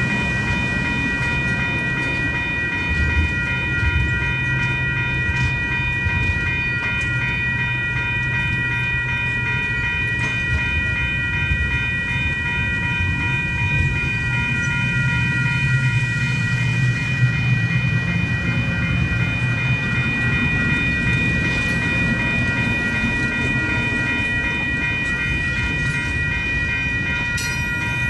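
Passenger cars of a long train rolling past, their wheels on the rails making a steady low rumble with some clickety-clack. A grade-crossing bell rings steadily over it.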